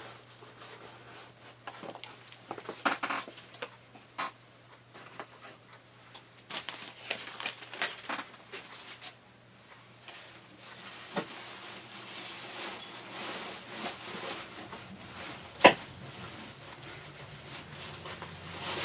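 Items being handled on a table: light rustling of paper and packaging with scattered small taps and clicks, and one sharper click a few seconds before the end.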